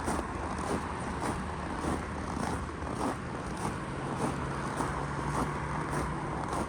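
Footsteps crunching on snow at a steady walking pace, a bit under two steps a second, over a steady low hum.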